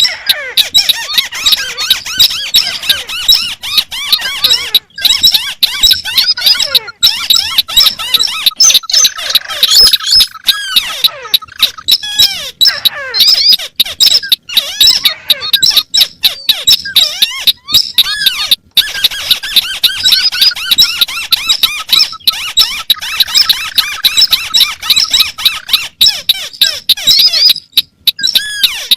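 Several crakes calling over one another in a combined lure recording: dense, rapid squeaky chattering, with a long falling trill twice.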